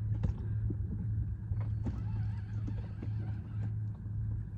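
Fishing reel being wound in to bring a fish to the boat, with scattered irregular clicks and knocks over a steady low hum.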